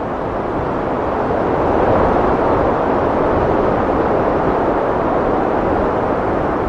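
Heavy wind blowing steadily, growing a little louder over the first two seconds.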